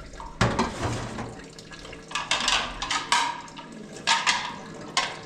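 Water splashing and pouring in about six short bursts, each starting sharply.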